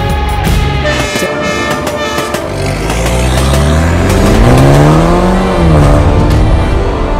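A motor vehicle engine rising in pitch for about two seconds and then dropping away, like a car revving and passing, over background music.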